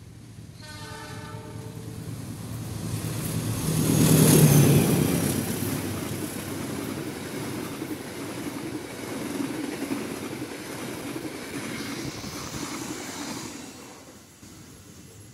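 Indonesian KAI diesel-hauled passenger train passing at speed. A short horn blast sounds about half a second in, the locomotive is loudest as it goes by about four seconds in, then the stainless-steel carriages rumble and clatter over the rails until the sound fades near the end.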